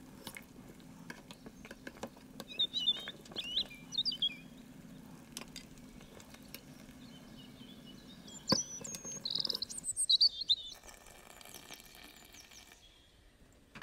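A small bird chirping in short bursts of quick rising and falling notes, about three seconds in and again from about eight and a half to ten and a half seconds. A spoon clinks against the steel pot now and then over a steady low hum, and water pours into the pot with a hiss near the end.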